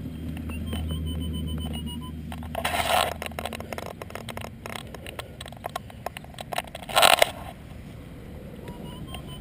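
Scraping and crackling of digging and handling soil in a hole, with two louder scrapes about three and seven seconds in and a run of small clicks between them. A low steady hum sounds during the first few seconds, and a few short faint beeps from a Minelab E-Trac metal detector come early on.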